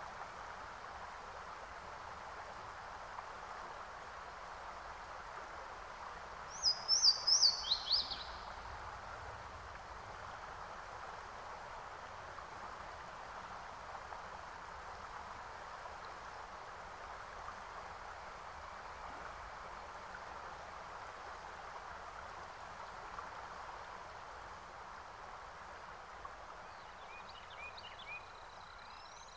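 A steady, even hiss of background noise, with a bird chirping a quick run of high, falling notes about seven seconds in and a few fainter chirps near the end.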